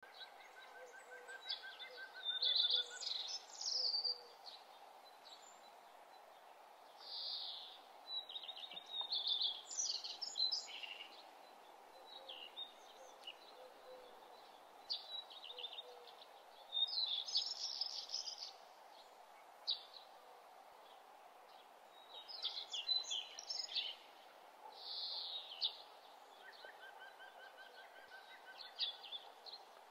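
Songbirds singing in short chirping phrases every few seconds over a faint steady background hiss, with a softer bird repeating a quick series of even notes lower down near the start and near the end.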